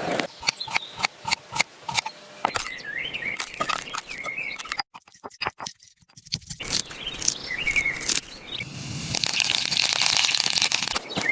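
Birds chirping amid many sharp clicks and knocks. About five seconds in the sound drops briefly to near silence, and near the end a loud hiss comes in.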